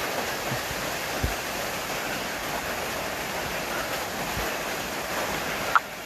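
Steady rushing noise, like running water, that cuts off sharply near the end, with a couple of faint low thuds.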